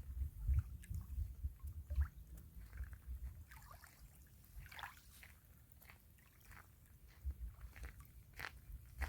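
Small river waves lapping and sloshing at the shore, with scattered light clicks and an irregular low rumble that comes and goes in gusts.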